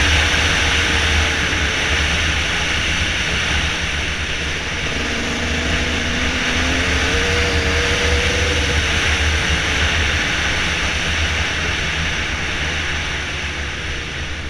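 Dirt bike engine running while riding, its pitch wavering up and down a little, under a steady loud hiss and low rumble.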